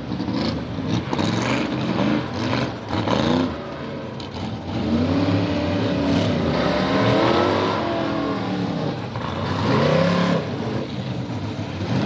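Rough trucks' engines revving hard as they race side by side, their pitch rising and falling again and again through gear changes and the bumps of the course.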